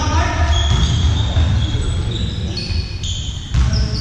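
Sports shoes squeaking on an indoor court floor during a ball game, with a ball bouncing about three and a half seconds in, over a steady low rumble in a large hall.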